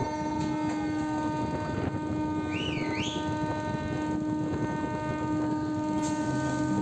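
Train horn held in one long steady tone over the rumble of the moving train. A brief warbling whistle comes about halfway through.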